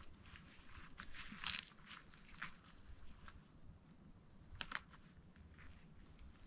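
Faint, irregular crunching footsteps, a few separate steps on frozen ground.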